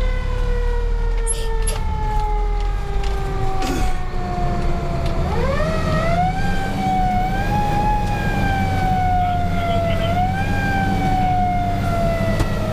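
Fire engine siren heard from inside the cab: its pitch falls slowly for about five seconds, climbs again about five seconds in, and climbs once more near ten seconds. Under it runs the low rumble of the 1993 KME Renegade's Cummins 6CTA 8.3 diesel engine pulling the truck on the highway.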